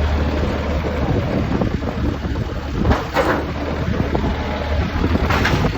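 Tractor engine running steadily with a constant low hum, with wind noise on the microphone.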